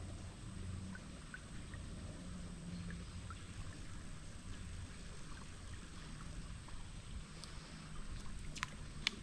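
Creek water running and rippling, with a steady low rumble and small scattered ticks, and two sharp clicks near the end.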